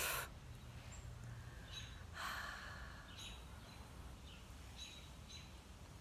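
A bird chirping repeatedly outdoors, short calls at irregular intervals, about five in all, with a person exhaling softly about two seconds in.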